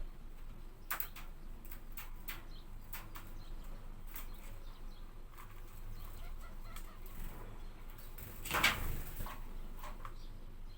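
Bird sounds: scattered sharp ticks, with a brief louder flutter about eight and a half seconds in, over a low steady hum.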